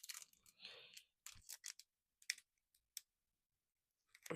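Faint, scattered clicks and a brief crinkle near the start from a foil Pokémon booster pack being handled while someone tries to open it.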